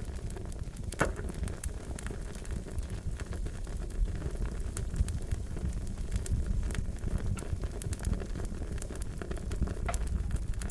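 Wood fire crackling steadily over a low rumble, with irregular sharp pops, the strongest about a second in.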